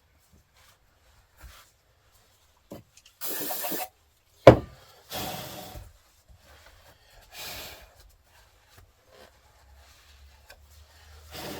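Hands-on workshop handling noises: a few short rubbing or hissing bursts, with one sharp knock about four and a half seconds in, the loudest sound.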